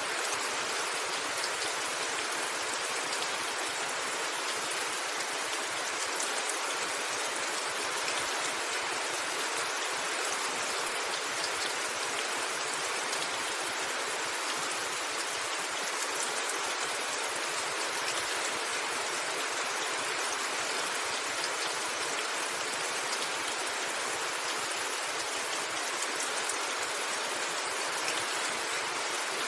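Steady rain falling on a rooftop: an even hiss with scattered drop ticks.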